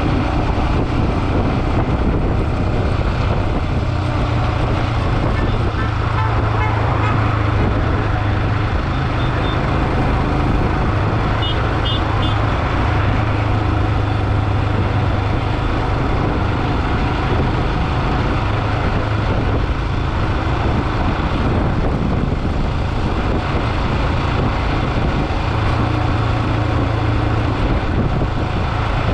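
Motorcycle engine running steadily at cruising speed under rushing wind noise. A vehicle horn toots in short beeps twice, once about six seconds in and again around twelve seconds in.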